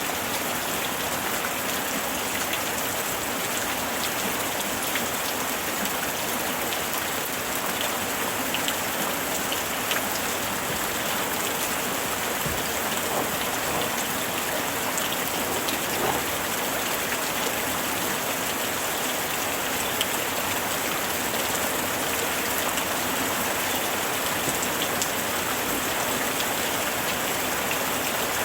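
Steady summer rain falling and pattering on a surface, with scattered individual drop ticks.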